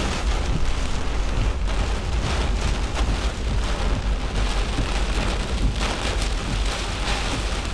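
Heavy wind-driven rain pelting a pickup truck, heard from inside the cab, over a steady low rumble of storm wind buffeting the vehicle.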